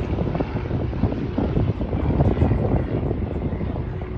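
The Jet Pitts S-2S aerobatic biplane flying a display, its piston engine and two small jet engines running together as a rough, steady rumble.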